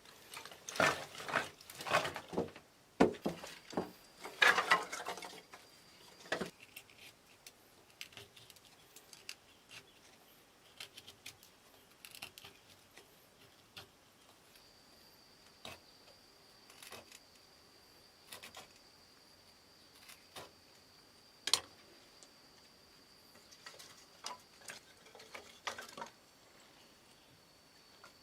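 Clicks, knocks and light clatter of materials being handled by hand, busy for the first six seconds, then only an occasional click with one sharper knock about three quarters of the way in. A thin steady high tone, like an insect, sets in about halfway.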